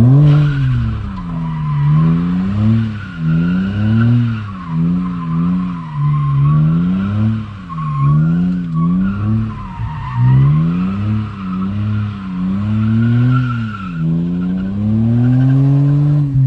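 BMW E39's 2.5-litre straight-six revving up and down over and over, roughly once a second, with a long steady pull near the end. Its tires squeal throughout as the car slides in a drift.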